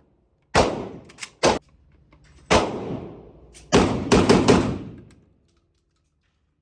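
Gunshots: one about half a second in, two lighter cracks just after, another about two seconds in, then a quick string of about four shots near the four-second mark, each trailing off in a short echo.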